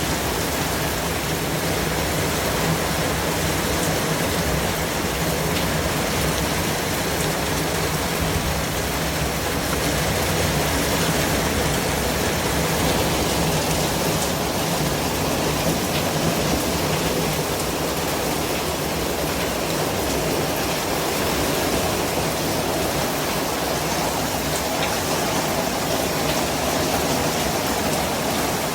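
Steady white-noise hiss spread evenly from low to high pitches, with no changes or separate sounds, much like steady rain.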